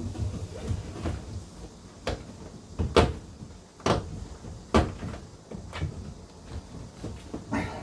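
Knocks and clunks of work in a kitchen sink cabinet as plastic drain pipe parts are handled and fitted together, with five or six sharp knocks spaced roughly a second apart.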